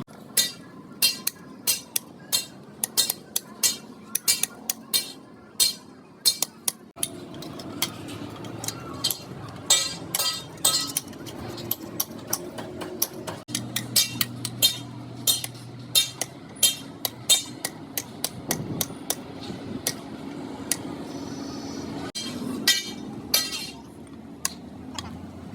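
Hand hammer striking metal again and again in quick, irregular sharp blows, typical of brake-shoe and lining work on a heavy vehicle.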